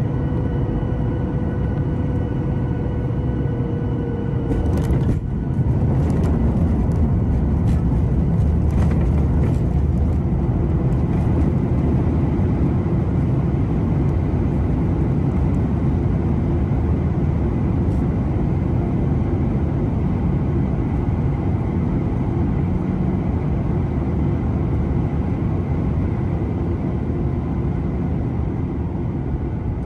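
Boeing 737 airliner landing, heard from inside the cabin: a steady engine and air rumble with a high whine on final approach, then about five seconds in the touchdown, with a run of thumps and rattles. A louder, steady rumble follows as the jet slows down on the runway.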